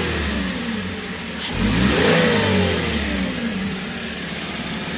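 Toyota Hiace engine revved once with the aircon on: the pitch climbs quickly about one and a half seconds in, then falls back to a steady idle, with the tail of an earlier rev dying away at the start. With its throttle body cleaned and idle reset, the engine now picks up cleanly under the aircon load instead of misfiring.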